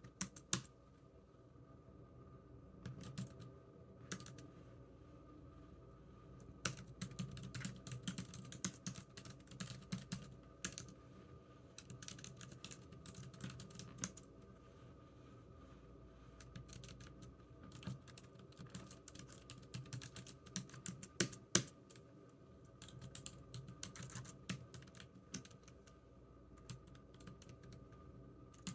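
Computer keyboard typing: irregular runs of key clicks with short pauses, over a faint steady hum.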